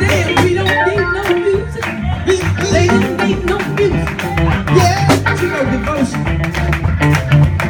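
Gospel band music with a steady drum beat and a strong bass line.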